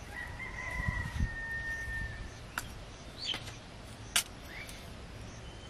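Birds calling: a long steady whistled note for about two seconds, then two short chirps. Between them come a couple of light sharp clicks from the steel spoon and cup being handled as salt is added.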